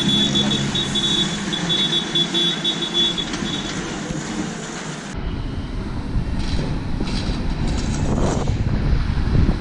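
A large diesel vehicle's engine running, with a rapid, broken high-pitched beeping over it for the first few seconds. About five seconds in, the sound changes abruptly to wind buffeting the microphone over engine rumble.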